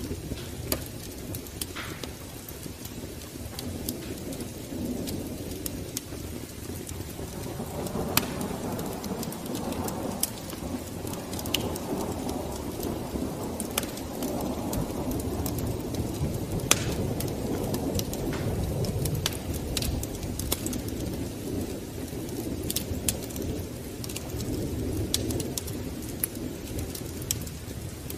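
Wood fire crackling in a fireplace: irregular sharp pops and snaps over a low, steady rush of flame that swells a little in the middle.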